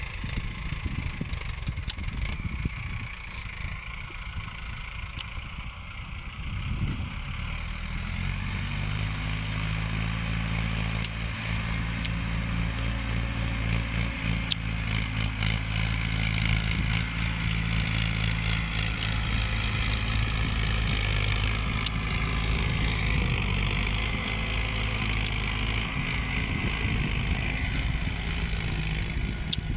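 Hindustan 60 tractor's diesel engine running. It is rough and uneven at first, then about seven seconds in it settles into a steadier, slightly louder, even engine note.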